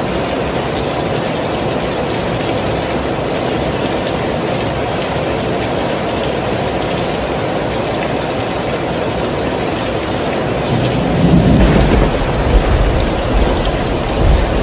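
Heavy rain falling steadily. About eleven seconds in, a deep low rumble swells in under the rain and the whole sound grows louder.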